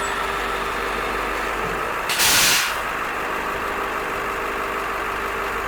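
School bus diesel engine idling steadily, with a short, loud hiss of released air about two seconds in, lasting just over half a second.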